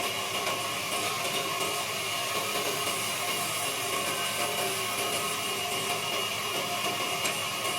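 Wood lathe running steadily, a constant machine hum and whir with no change in speed.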